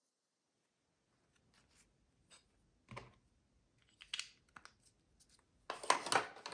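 Handling of paper and small tools: scattered light clicks and a soft knock about three seconds in, then a louder rustle of paper near the end.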